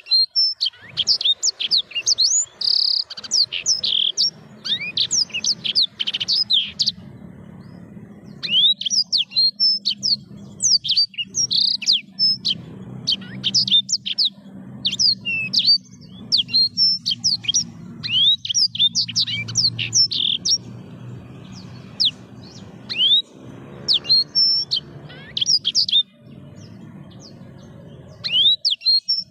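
Black-throated canary (blackthroat) singing in long runs of rapid, high chirps and trills, pausing briefly several times.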